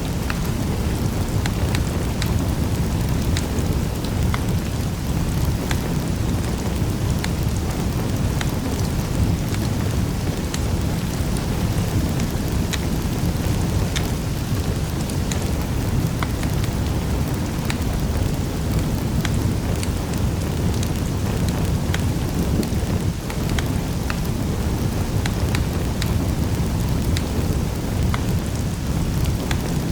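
Wood fire crackling in a fireplace: a steady low rush of burning with many scattered sharp crackles and pops.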